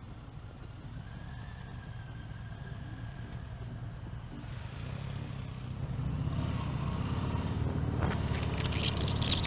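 Harley-Davidson motorcycle's V-twin engine running low after a stop, then pulling away through a turn, getting steadily louder from about halfway through. Near the end, wind buffets the helmet-mounted microphone.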